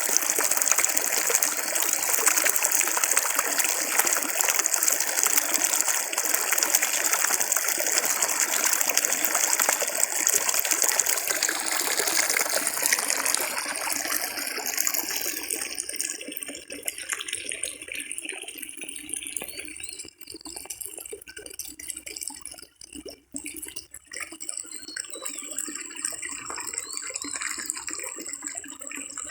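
Flowing water rushing steadily, growing softer about halfway through and going on as a quieter trickle with scattered small clicks.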